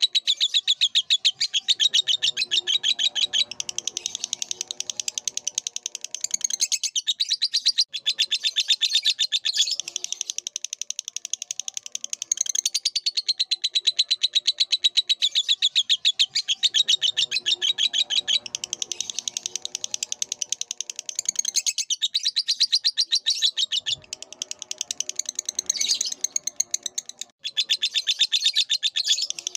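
Lovebird singing a long, rapid chattering trill of high chirps, going on with only a few short breaks.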